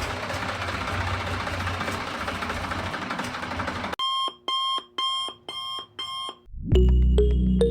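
A small motor running with a steady rough whirr for about four seconds, then an abrupt cut to five electronic alarm-style beeps about half a second apart, followed near the end by music with a heavy bass.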